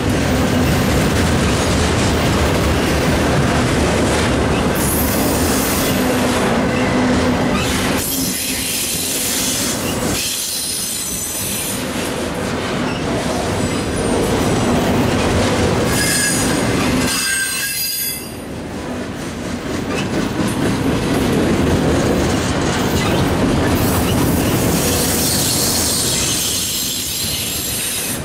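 Autorack freight cars rolling past close by, a steady rumble and clatter of wheels on rail, with high-pitched wheel squeal coming and going several times.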